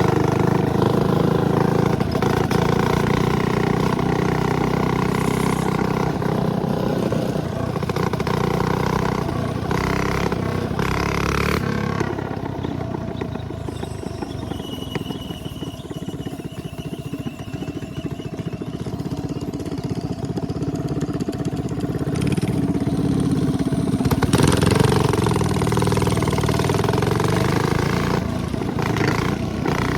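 Small 212cc single-cylinder minibike engine running while riding. It eases off for a stretch in the middle and picks up again after.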